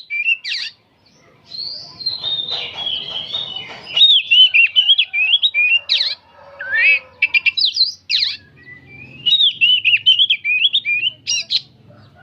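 Oriental magpie-robin singing a rapid, almost unbroken song of quick whistled and chattering phrases, with a short pause about a second in.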